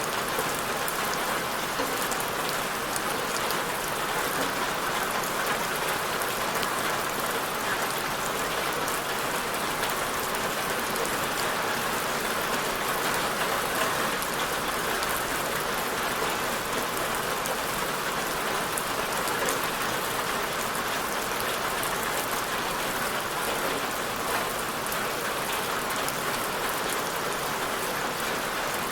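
Steady rain falling on a surface, a dense even patter without let-up.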